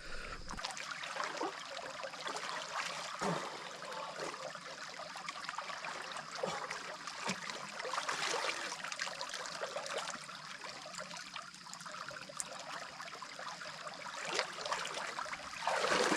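Rocky mountain stream water running and trickling, with irregular small splashes and a louder surge of splashing near the end.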